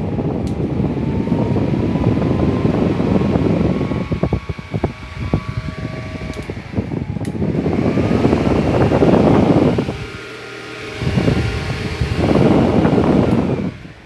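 Arno VD40 electric fan running with a Mondial fan blade fitted: rushing air with a motor hum whose pitch glides up and down. The level drops briefly about ten seconds in, then comes back up.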